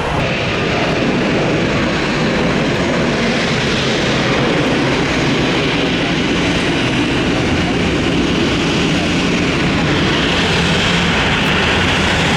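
Jet airliner engines: a loud, steady rushing noise with a low hum underneath, the higher part of the rush growing stronger near the end.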